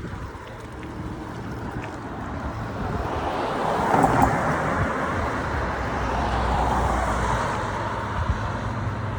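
Outdoor wind and traffic noise heard from a moving bicycle: a steady rush with a low rumble. It swells for a few seconds in the middle, as a passing vehicle would, then eases off.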